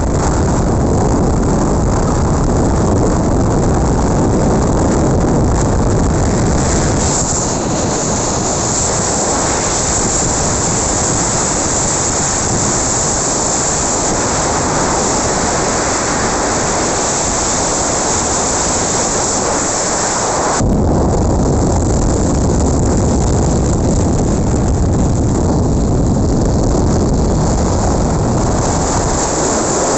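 Loud, steady rushing noise with a heavy low rumble, typical of wind buffeting the microphone outdoors. The noise shifts abruptly about two-thirds of the way in.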